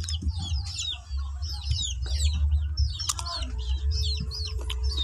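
Birds chirping: many short, high, downward-sliding chirps following one another quickly, over a steady low rumble.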